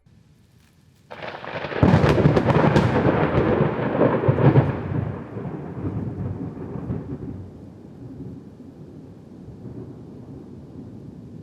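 A loud thunderclap: a sudden crack about a second in, a peal with several sharp cracks over the next few seconds, then a low rumble that fades slowly.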